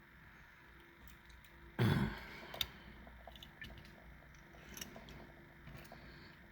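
Light clicks and rustles of small diecast toy cars and plastic being handled, with one louder short rustle or knock about two seconds in.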